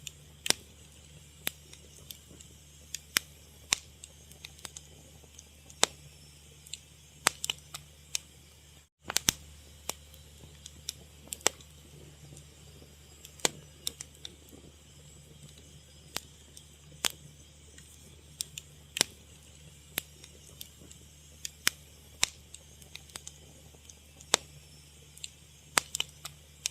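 Fire crackling: irregular sharp pops and snaps, a few a second, over a steady low hum. The sound drops out completely for a moment about nine seconds in.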